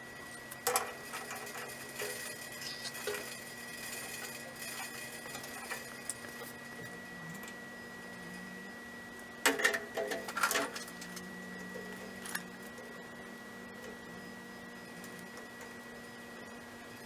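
Intermittent clicks and clattering of metal parts and tools being handled at a gas water heater, with a loud cluster of clanks about halfway through, over a faint steady high-pitched tone.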